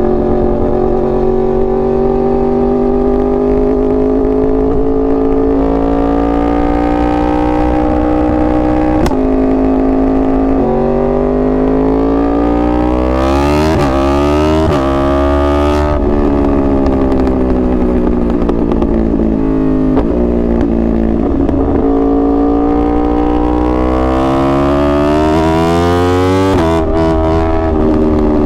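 2021 Yamaha R1's crossplane inline-four engine being ridden hard: its pitch climbs under throttle and drops sharply at each gear change, about three times. Midway the revs fall off for a few seconds before climbing again.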